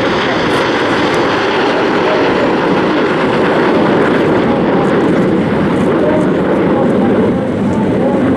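Red Arrows' BAE Hawk T1 jets flying over, a loud, steady jet noise that holds for several seconds.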